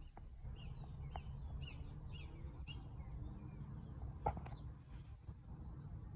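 Small birds chirping outside, a run of short high chirps about half a second apart through the first three seconds, over a steady low rumble. A single sharp click a little past four seconds in is the loudest sound.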